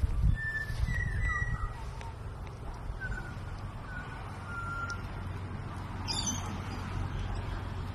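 Birds calling: a few short whistled notes in the first half, then a harsh squawk about six seconds in, over a steady low rumble.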